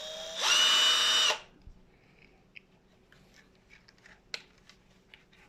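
Cordless brushless impact wrench triggered with no load: its motor whines up and runs free for about a second, then stops abruptly. A few faint clicks of handling follow.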